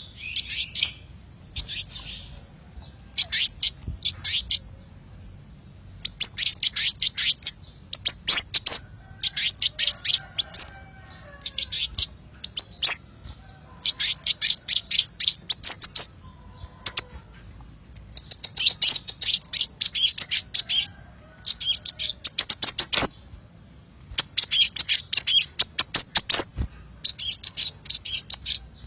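Sunbird ('kolibri') song from a bird-lure recording: repeated bursts of rapid, high-pitched chirping notes, each burst lasting one to two seconds, with short pauses between.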